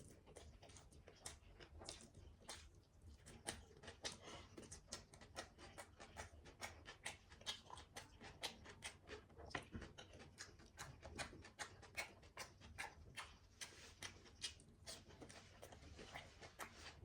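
Close-up eating sounds: chewing and mouth smacks, a rapid irregular run of small clicks, a few a second, over faint low hum.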